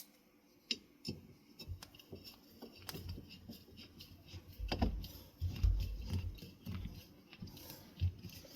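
Handling noise from fan parts being worked on: scattered light clicks and a few low knocks and thumps, heaviest about halfway through.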